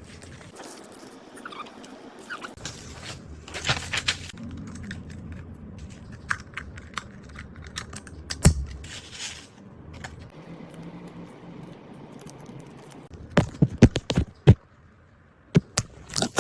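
Small items and plastic packaging being handled and unwrapped: scattered clicks and taps with short bursts of rustling and scraping, and a quick run of sharp taps near the end.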